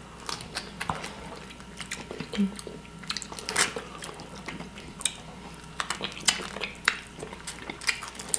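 Close-up eating sounds of buttered garlic shrimp: shells crackling and clicking as they are peeled and pulled apart by hand, with chewing and small wet sucking noises.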